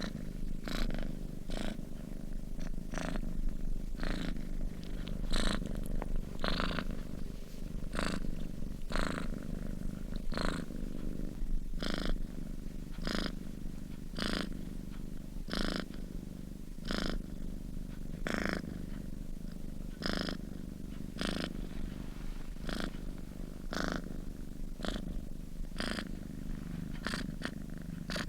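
Domestic cat purring steadily as it sleeps: a continuous low rumble, with a short breathy rasp roughly every second as it breathes in and out.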